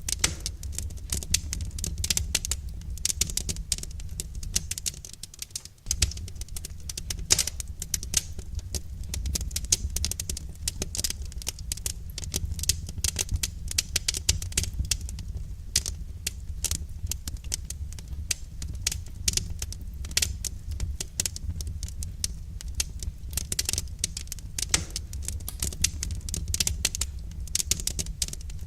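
Wood fire crackling in a fireplace: a dense run of irregular pops and snaps over a low steady rumble, dipping briefly about five seconds in.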